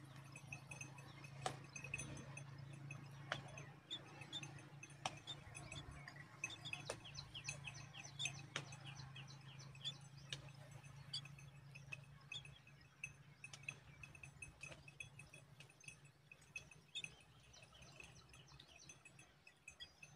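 Myna nestlings making faint, rapid high chirps, thickest in the middle, with sharp ticks recurring about every two seconds and a low hum over the first few seconds.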